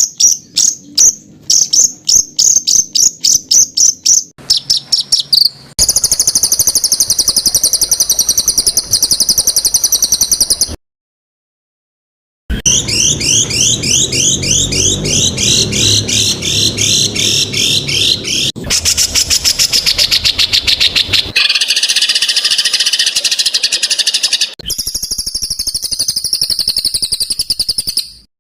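Songbird tutor recording of rapid, tightly packed harsh notes and fast trills, the 'tembakan rapat dan kasar' style. It runs in several spliced passages, breaks into silence for nearly two seconds about eleven seconds in, then resumes.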